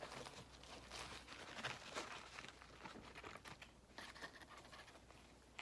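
Faint crinkling and rustling of fast-food paper packaging being handled, in scattered light crackles.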